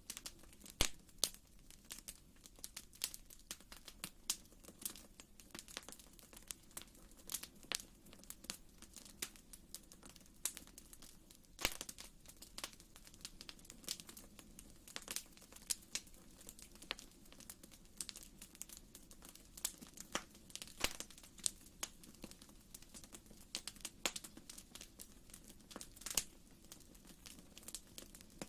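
Wood fire crackling in a fireplace: irregular sharp pops and snaps, several a second, over a soft steady low rumble of the flames.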